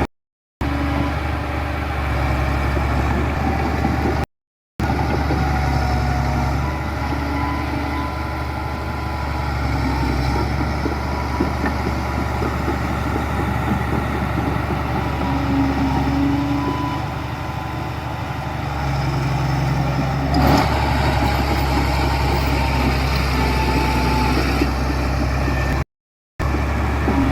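Heavy diesel construction machinery running steadily, with a single sharp clank about twenty seconds in. The sound cuts out briefly a few times.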